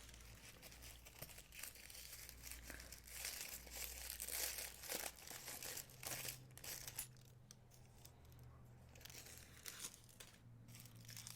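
Faint crinkling and rustling of packaging being handled and opened, coming and going irregularly with short lulls.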